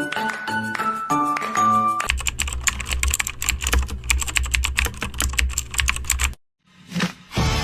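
A short bit of music with plucked-sounding notes gives way, about two seconds in, to fast, busy computer-keyboard typing with a low hum beneath it. The typing cuts off suddenly about six seconds in.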